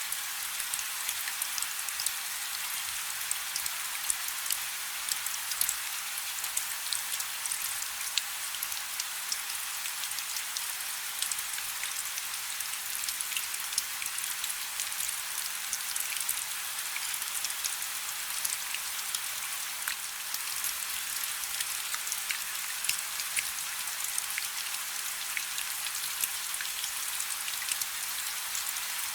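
Light rain falling steadily, a dense patter of small drops ticking on a surface over a soft hiss.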